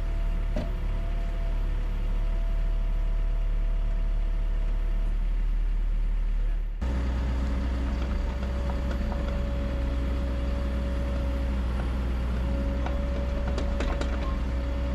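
Excavator diesel engine running steadily with a thin, steady whine above the drone. About halfway through the sound changes abruptly to a deeper, heavier engine drone with a slightly lower whine, and a few light clicks come near the end.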